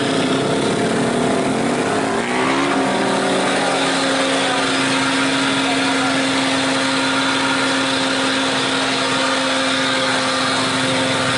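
Heavy truck's diesel engine running hard under a 22-tonne load on a steep climb; its pitch shifts over the first few seconds, then holds steady.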